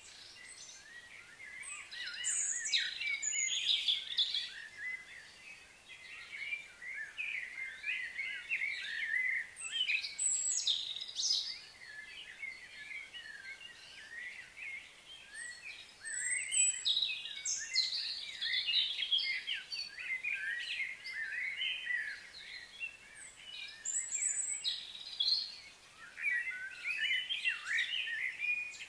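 Songbirds chirping and singing, many quick overlapping calls that come in louder spells every few seconds.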